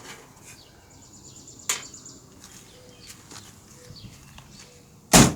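Faint outdoor background with a sharp click a couple of seconds in and a short, loud thump near the end.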